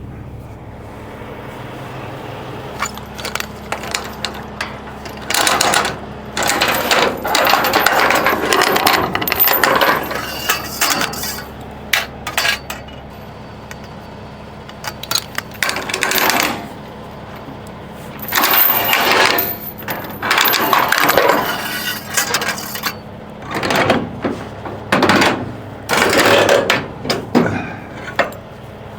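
Load-securing chains clinking and clanking in repeated irregular bursts as they are handled and thrown over the load, over a steady low hum.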